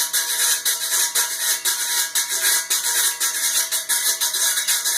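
Stainless-steel guiro (güira) scraped with a six-tined metal comb in quick, even back-and-forth strokes, making a bright, hissing metallic rasp.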